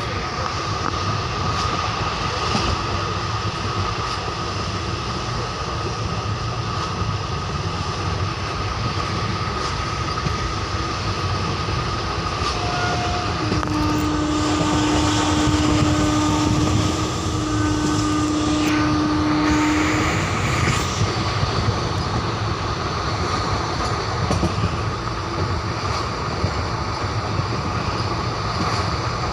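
Express passenger train running on the rails, heard from on board as a steady rumble and rattle of wheels and coaches. About 14 seconds in, a long low horn-like tone sounds for about six seconds, with a brief break partway.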